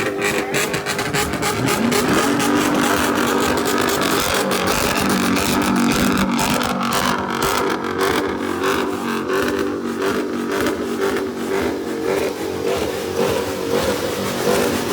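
Car engine running and revving at a car meet, its pitch rising and falling again and again.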